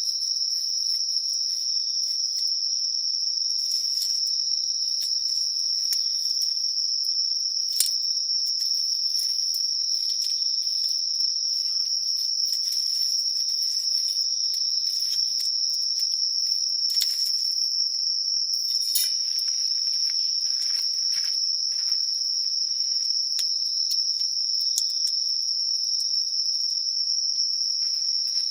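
Crickets and other night insects singing in a continuous high, steady trill, with scattered short crackles and pops from a wood campfire.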